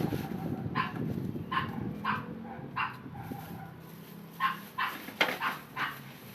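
Dog barking in repeated short barks: a few spaced ones, then a quicker run near the end, over a low noise that fades about two-thirds of the way in.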